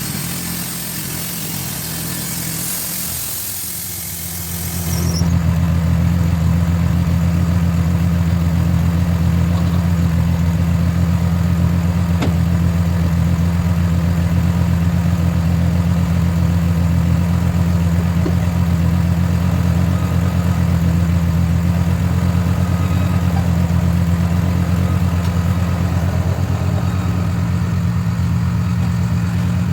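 Portable sawmill's engine running steadily at a constant speed. It gets louder about five seconds in and then holds steady.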